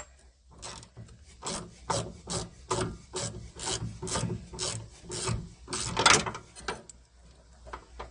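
Ratchet wrench being swung back and forth to turn a door hinge bolt on a 1979 Pontiac Trans Am. The short rasping strokes come about two to three a second, with a sharp click at the start.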